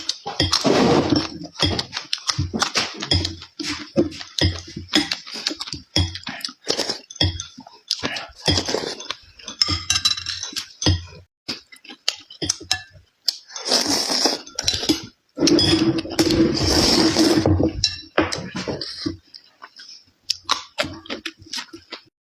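Close-up eating sounds: irregular clicks and clinks of utensils against dishes, mixed with chewing, with a couple of longer noisy stretches in the second half.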